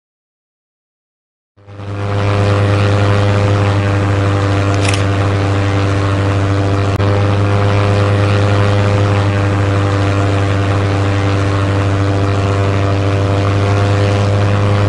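Propeller airplane engine sound effect that starts about a second and a half in, rises quickly and then runs steadily at one pitch.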